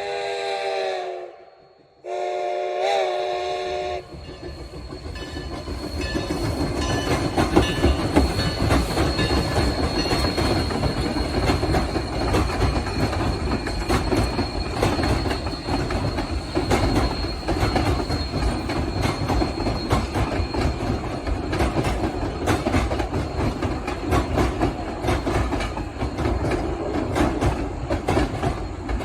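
Steam locomotive's chime whistle sounding, cut off after about a second and a half and followed by a second short blast that bends in pitch. From about four seconds the train rolls by with clickety-clack from the wheels over the rail joints and a thin steady wheel squeal, loudest around eight seconds in.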